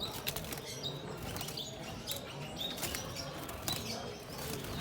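Small cage birds chirping, with short high chirps repeating every second or so and the rustle and flutter of wings.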